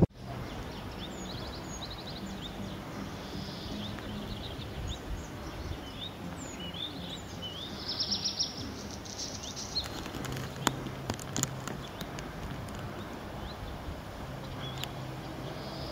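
Several small songbirds chirping and calling, with many short rising and falling notes and a buzzy trill about halfway through. A few sharp clicks come in the second half.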